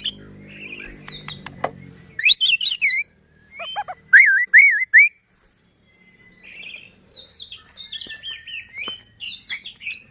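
White-rumped shama (murai batu) singing a varied song. It opens with fast high notes, then gives a run of loud looping whistles, and after a brief pause goes on with quicker chirping phrases.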